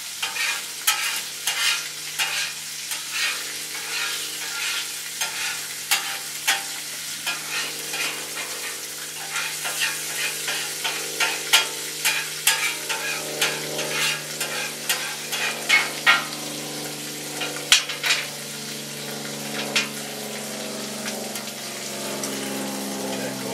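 Chicken wings sizzling on a hot grill, the fat crackling and popping in quick irregular snaps. A low engine drone builds up underneath in the second half.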